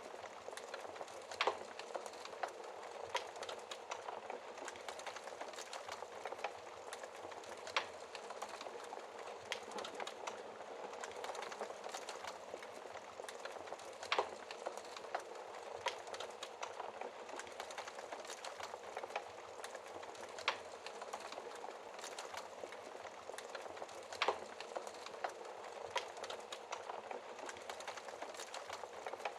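Wood fire crackling and hissing, with frequent small pops and a few sharper snaps spaced several seconds apart.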